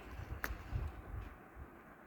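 KDK K15V0 ceiling fan running: uneven low rumble of moving air, with one sharp click about half a second in.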